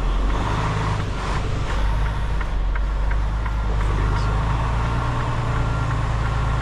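Semi truck's diesel engine running steadily, heard from inside the cab, with a light regular ticking about twice a second over it.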